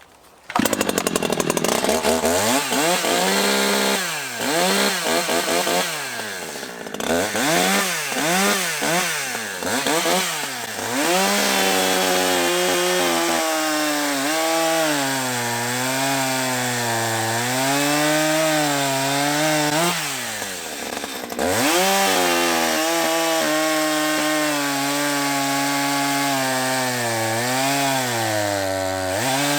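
Echo CS-620 two-stroke chainsaw with its factory muffler at full throttle, cutting into a log. The engine starts loud about half a second in and its pitch sags and recovers again and again as the bar is pushed hard into the wood.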